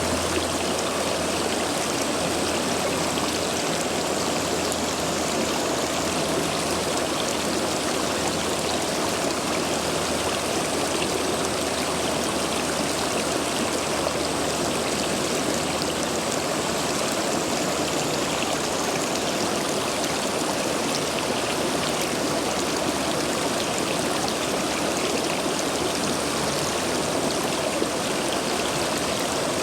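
A rain-swollen urban stream rushing through a line of stepping stones: a steady, full rush of water with no change in level. The strong flow comes from heavy rain in the days before.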